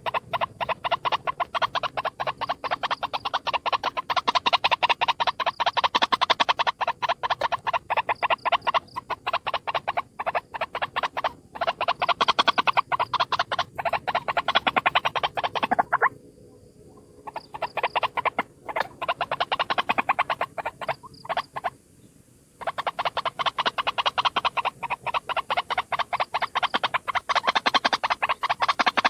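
White-breasted waterhen (ruak-ruak) calling, played as a trapping lure: fast, harsh croaking notes repeated in long bouts, with two short breaks at about 16 and 21 seconds in.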